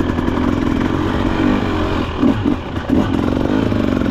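Husqvarna TE300 TBI 300cc two-stroke fuel-injected dirt bike engine running under way, its note surging a few times with the throttle about two to three seconds in.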